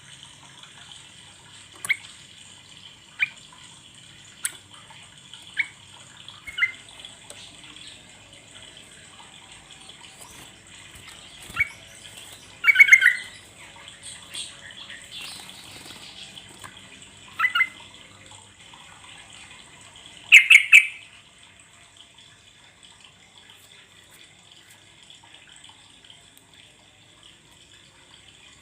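Yellow-vented bulbul (trucuk) calling: short chirps and brief chattering phrases at irregular intervals, the loudest three around the middle, over a steady background hiss.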